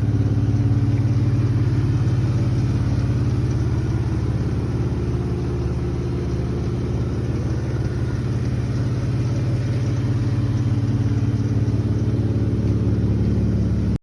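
Car engine idling steadily, a constant low hum with no revving.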